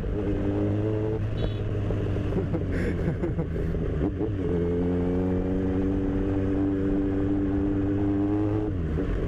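Kawasaki Z1000 inline-four motorcycle engine running under way. The engine note shifts up and down between about two and four seconds in, then holds steady and drops near the end.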